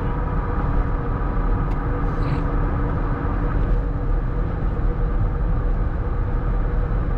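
Steady road and engine noise from inside a moving car's cabin, a low rumble with a faint hum.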